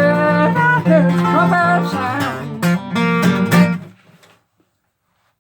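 A man singing the closing line of a gospel song over strummed acoustic guitar; the voice and guitar end together about four seconds in.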